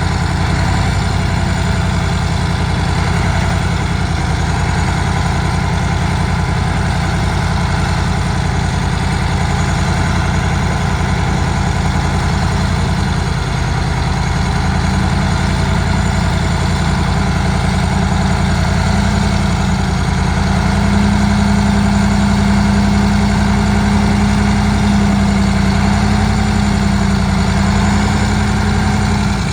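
Shantui bulldozer's diesel engine running steadily, loud and low, getting slightly louder about two-thirds of the way through.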